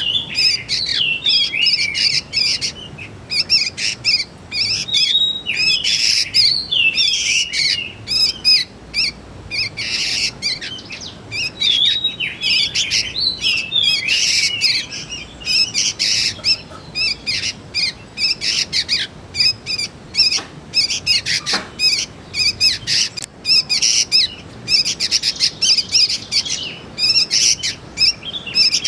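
Young sooty-headed bulbuls calling: a steady stream of short, high chirps and quick rising and falling notes, with several calls overlapping at once.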